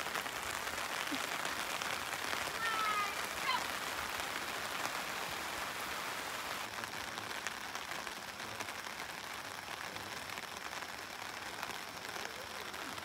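Steady rain pattering on a tarp canopy, with a few brief high chirps about three seconds in.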